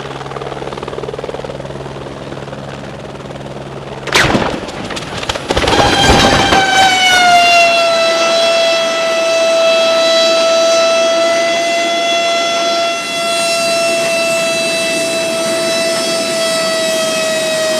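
A helicopter crash: a low steady hum, then a loud impact about four seconds in, followed by a steady high whine that slowly drops in pitch.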